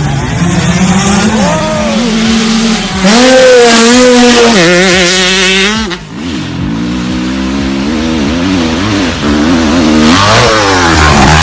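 Off-road vehicle engine revving hard, its pitch rising and falling over and over, with a short drop in level about six seconds in.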